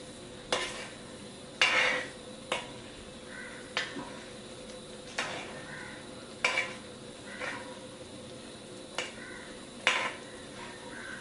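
Steel ladle stirring thick curry gravy in a metal pan, knocking and scraping against the pan about once a second, over a low sizzle of the simmering gravy.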